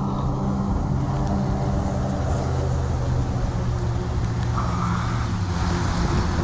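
A steady, low engine drone from a motor running at an even speed, with a hiss over it.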